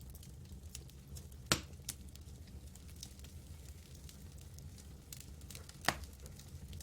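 Campfire burning: wood crackling with scattered small clicks and two louder pops, one about a second and a half in and one near six seconds, over a low steady rumble.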